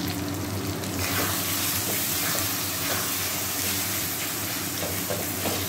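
Onions and tomatoes sizzling in hot oil in a kadai, with a metal spatula stirring through them; the sizzle grows a little louder about a second in.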